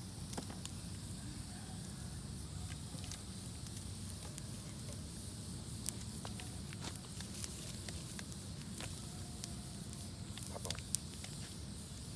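Campfire crackling, with scattered sharp pops over a steady low rumble and hiss.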